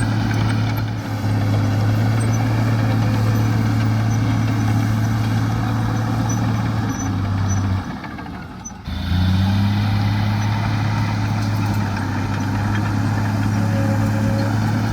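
Heavy diesel engine of earthmoving machinery running steadily with a low, even drone. The sound drops away briefly about eight seconds in, then comes back abruptly.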